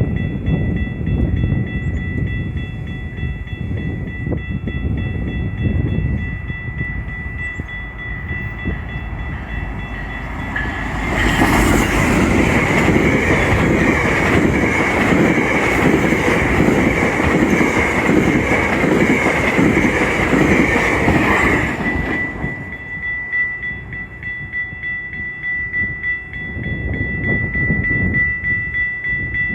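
Passenger train passing at trackside: a low rumble as it nears, then about ten seconds of loud wheel-and-rail noise with clickety-clack as the cars go by close, then it drops back to a rumble as the train moves away. A thin steady high whine runs under it throughout.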